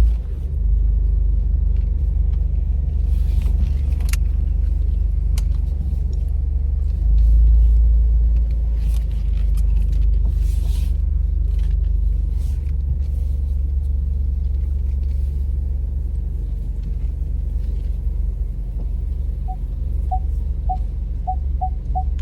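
Low rumble of a car's engine and tyres heard from inside the cabin as it is manoeuvred slowly into a parking spot, with a few scattered clicks. Near the end a parking sensor starts beeping, the beeps coming faster and faster as the car closes in on an obstacle.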